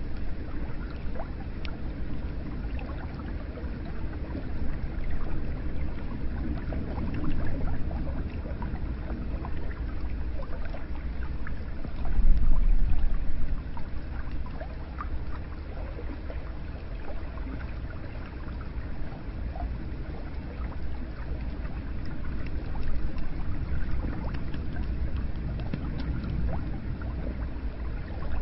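Hot spring water pouring and trickling into a bath, a steady gurgling flow with small splashes. It swells louder for about a second and a half, about twelve seconds in.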